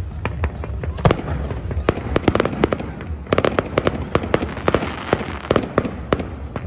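Fireworks display: a rapid, irregular run of sharp bangs and crackling pops, densest through the middle few seconds.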